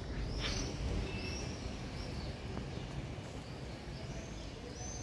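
Small birds chirping, a string of short high arched notes repeated every half second or so, over a steady low rumble of street noise.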